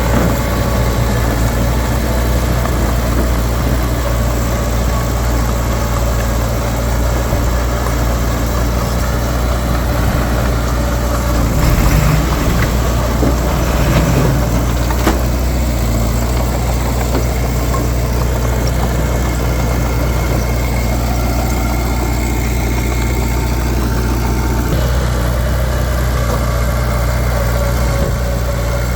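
Heavy diesel engine of earthmoving machinery running steadily, with two brief louder surges about twelve and fourteen seconds in.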